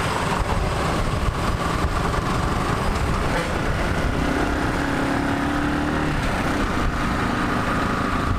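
Motorcycle engine running steadily while riding on the move, under a dense rush of wind and road noise.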